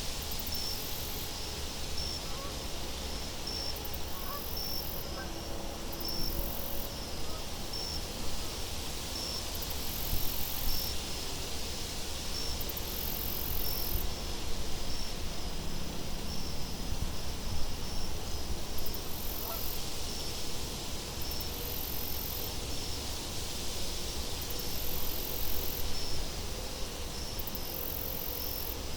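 Steady wind with a low rumble, under a short high chirp repeating about once or twice a second.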